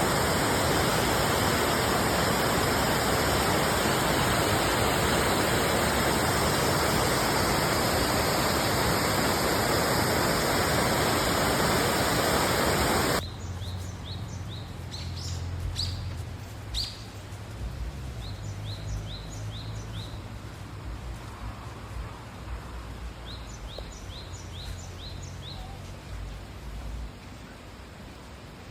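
Loud, steady rush of a waterfall that cuts off abruptly about halfway through. After it comes a quieter low rumble, with a bird repeating short runs of high, quick chirps.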